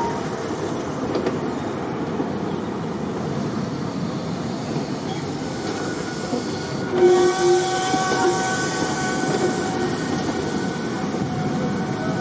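A diesel-hauled train running on the rails: a steady rumble of wheels and track noise. About seven seconds in, a brief ringing squeal rises over it.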